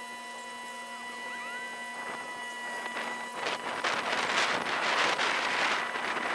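A boat's engine heard sped up twenty times, reduced to a steady, high, machine-like hum with a few fixed tones. About three seconds in, a rush of noise builds up and then eases off near the end.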